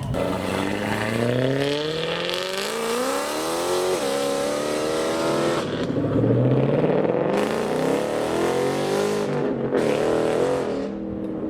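V8 car engine accelerating hard as the car pulls away, its pitch climbing and dropping sharply at gear changes about four and six seconds in.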